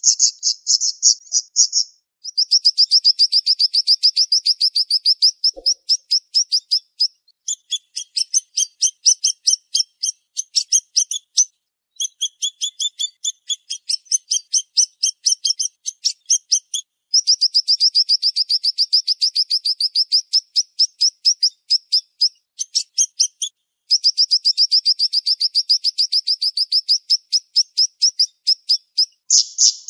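Siri-siri bird singing long strings of sharp, high-pitched chirps repeated very fast, several notes a second. The strings last a few seconds each and are broken by brief pauses.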